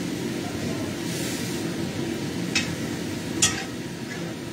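Food sizzling as it fries in a wok on a gas stove, with a steady hiss that swells briefly about a second in. Two sharp clinks of cookware come a little under a second apart past the middle.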